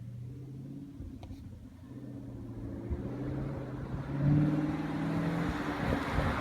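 Stock exhaust of a 2017 Chevrolet Camaro 2SS with its 6.2-litre V8, running and getting steadily louder, with a sharp rise in revs about four seconds in.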